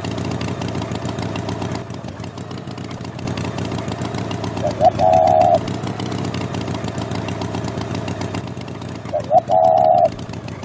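Engine running steadily, with two short honks about four seconds apart.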